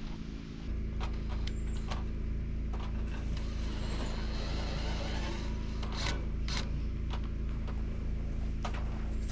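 A steady low mechanical hum, like a motor or engine running, that sets in just under a second in and holds, with a few sharp clicks over it.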